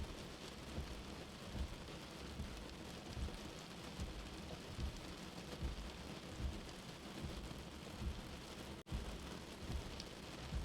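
Steady rain with a soft, low heartbeat thumping evenly, a little more than once a second. The sound cuts out briefly about nine seconds in.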